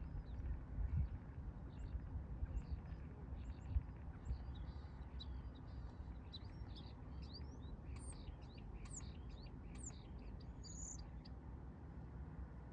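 Small birds chirping: many short, high calls and quick up-and-down notes, busiest in the middle and stopping shortly before the end. Under them runs a steady low rumble, with a few thumps near the start.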